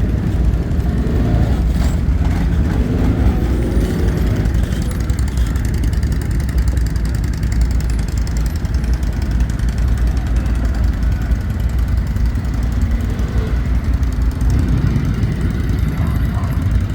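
ATV engine running steadily, a low even drone with no change in speed.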